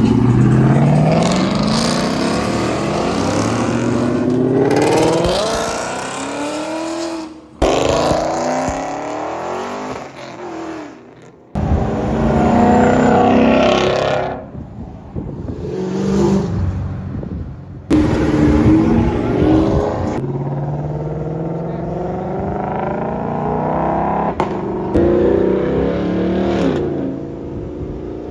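Performance cars accelerating hard in a string of short clips cut together. Engine pitch climbs through the revs, dips at shifts and climbs again, and each clip is cut off abruptly every few seconds.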